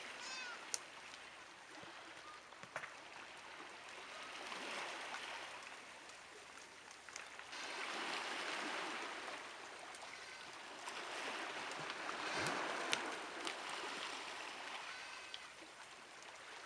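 Small sea waves washing on the shore, swelling and fading about every four seconds, with a few faint clicks.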